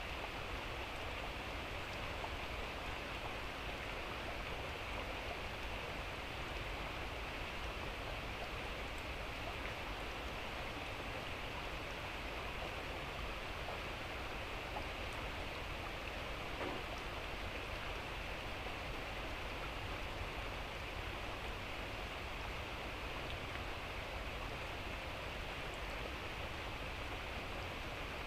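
Light drizzling rain falling steadily, an even hiss with a low rumble underneath.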